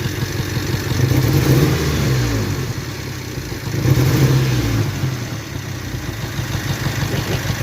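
1998 Toyota 4Runner four-cylinder engine running rough, revved up twice and dropping back to idle between. It has a misfire on cylinder number 2.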